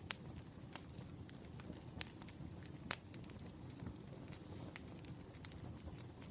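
Burning firewood crackling over a low, steady rumble of the fire, with scattered sharp pops. The loudest pops come at the start, about two seconds in and about three seconds in.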